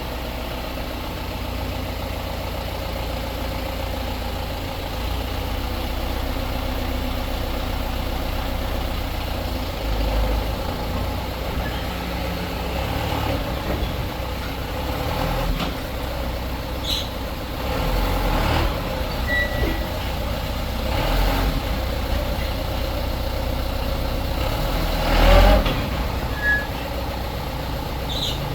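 Heavy truck's diesel engine running steadily at low revs, with a few brief rushes of noise over it, the loudest about 25 seconds in.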